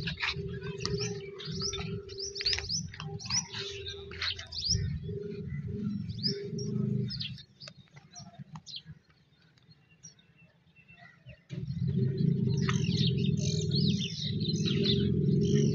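Birds chirping and calling again and again over a low steady hum. The hum fades away about seven seconds in and comes back suddenly and louder a few seconds later.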